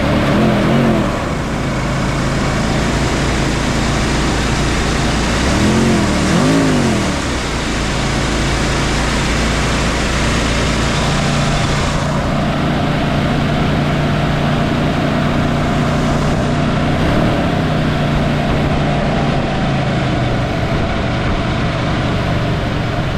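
1965 Ford Mustang's 289 cubic-inch two-barrel V8 running at a high idle just after starting, revved up and back down twice, about a second in and again about six seconds in.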